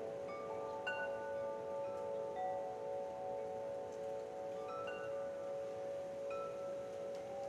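Wind chimes ringing: several metal tones overlap and sustain, with new notes struck at irregular moments over a faint hiss.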